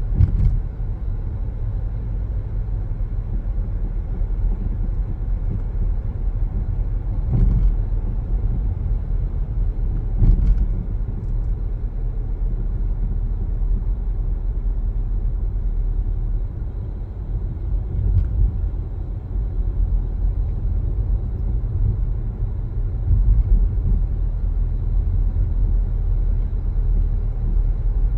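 Steady low rumble of a car driving along, with road and tyre noise. A few brief thumps come through, about 7 and 10 seconds in and again near 18 seconds.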